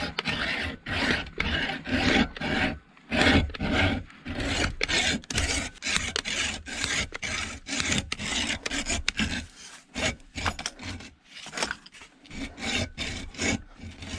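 Hand hacksaw sawing back and forth through a solid piece to reach the copper windings inside, about two strokes a second, with a short pause about ten seconds in.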